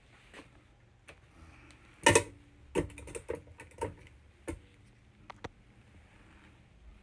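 Kitchen tongs clicking and clacking against the metal cooking tray while chicken wings are turned over: about a dozen sharp, uneven clacks in a cluster, the loudest a little after two seconds in, some with a brief metallic ring.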